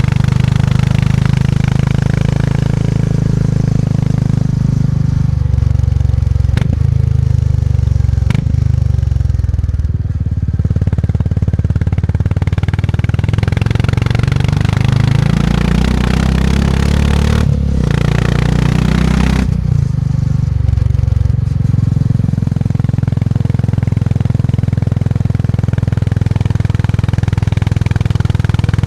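Motorcycle engine running under way, with two sharp clicks close together about a quarter of the way in. Its note then climbs for several seconds, then drops suddenly as the throttle closes.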